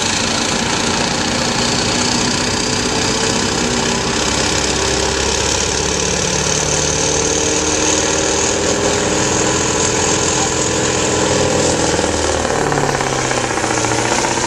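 Semi truck's diesel engine running hard under load as it pulls the weight sled down the track; its note climbs slowly and then drops about twelve seconds in.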